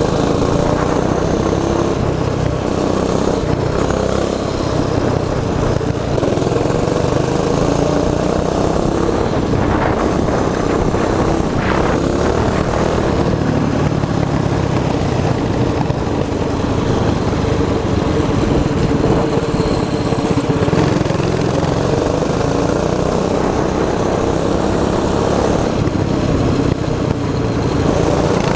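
Predator 212 single-cylinder four-stroke engine of a mini bike running steadily while riding, its pitch drifting slightly with small changes in throttle.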